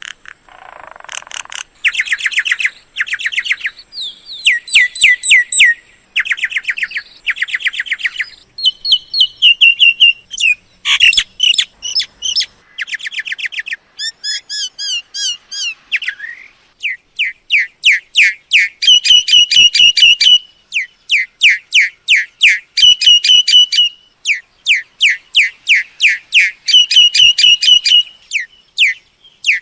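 Mynas calling: short bursts of rapid rattling chatter, then from about halfway through a long run of quick, sharp whistled notes repeated over and over.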